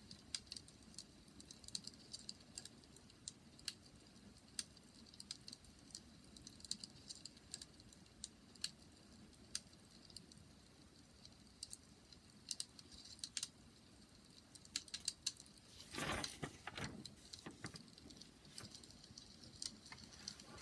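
Wood fire crackling, with scattered irregular pops and snaps over a faint low hiss; a denser, louder flurry of crackles comes about three-quarters of the way through.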